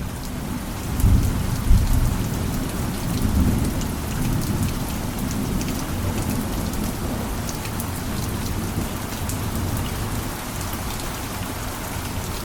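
Steady rain with a low rolling rumble of thunder under it. The rumble is heaviest a second or two in, then settles to a steady background. Small sharp ticks are scattered through the rain.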